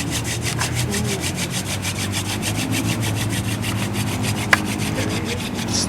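Quick, even back-and-forth rasping strokes on wood, about five or six a second, like sawing or scraping, with one sharp click about four and a half seconds in.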